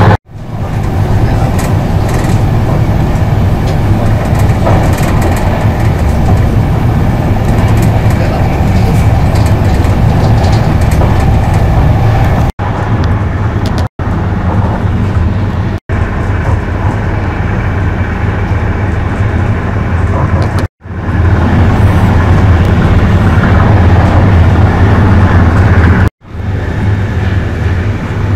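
Running noise inside a Virgin Trains Pendolino electric tilting train at speed: a steady low rumble with wheels on rail. It is broken about five times by brief gaps where the sound cuts out.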